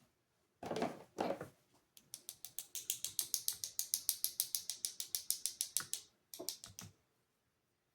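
A rapid, even run of ratcheting clicks, about nine a second for about four seconds, from a small mechanism being turned by hand. Short rustling handling noises come before and after it.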